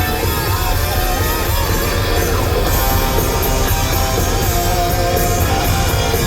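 Hard rock music with electric guitar, over a steady low rumble of wind on the microphone.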